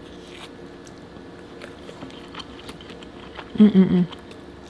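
A person chewing food, with faint wet mouth clicks, then biting into a sausage; a short hummed "mm" in three quick pulses comes about three and a half seconds in.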